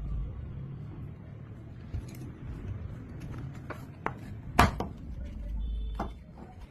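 Hard objects being handled during a motorcycle mirror repair: a string of sharp clicks and taps, the loudest a little past halfway, over a low rumble.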